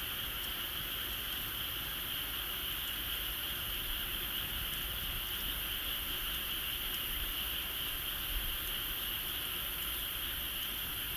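A steady, high-pitched chorus of insects, with a few faint scattered crackles from a bonfire.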